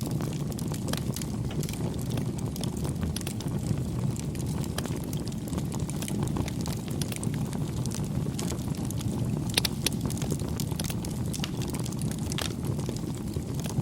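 Campfire burning: a steady low rumble of flames with scattered sharp crackles and pops from the burning wood, two louder pops near the end.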